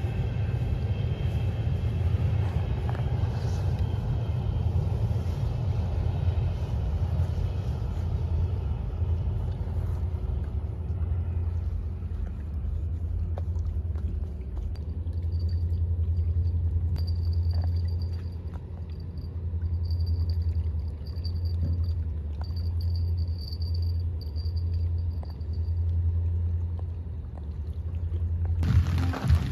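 Low rumble of a train crossing a steel truss railway bridge, with faint squealing tones during the first ten seconds. The rumble carries on, rising and falling, until near the end.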